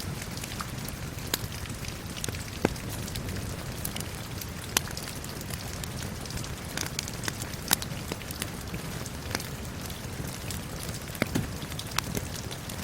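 Steady rain with a crackling fire: an even hiss of rain under sharp, irregular pops and snaps from burning wood, a dozen or so, a few of them much louder than the rest.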